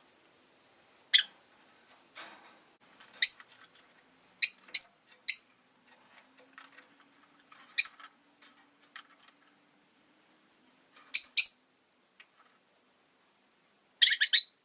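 Pet rosy-faced lovebirds (Agapornis roseicollis) giving short, sharp, high-pitched chirps, spaced out singly and in quick pairs, with a rapid cluster of calls near the end.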